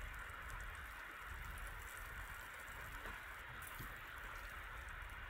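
Salmon fillet frying in hot oil in a frying pan, a steady sizzle.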